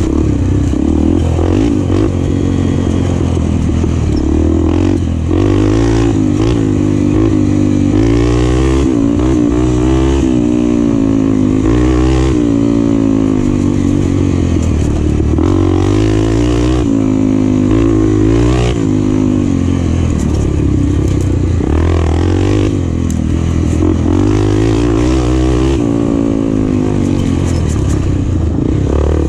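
Enduro motorcycle engine revving up and down over and over, its pitch climbing and dropping every second or two as it accelerates and backs off, with scattered knocks and clatter from the bike.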